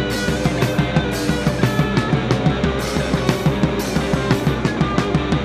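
A rock band playing live, with no vocals: a fast, even drum-kit beat under electric guitar and bass.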